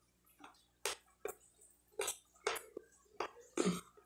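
A person chewing a mouthful of pork rib stew and rice close to the microphone, making irregular wet mouth clicks and smacks about two a second.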